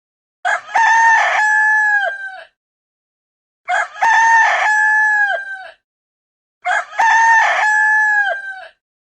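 Rooster crowing cock-a-doodle-doo three times, each crow about two seconds long with a long held final note that drops off at the end. The three crows are the same recording repeated, with dead silence between them.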